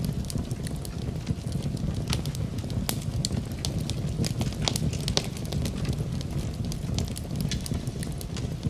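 Wood fire burning in a fireplace: a steady low rumble of flame with irregular crackles and pops from the burning wood, a few sharper pops standing out.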